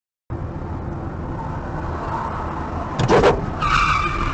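Car driving with steady engine and road rumble. About three seconds in there is a sharp bang, followed by a short high steady tone.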